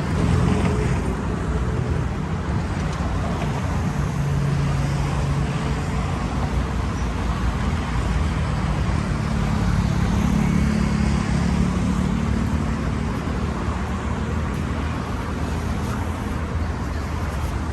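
Steady road traffic: cars driving past, with engine hum swelling a couple of times.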